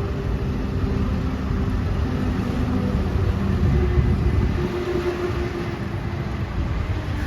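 Heavy diesel machinery engine running steadily, its low hum shifting a little in pitch as the load changes.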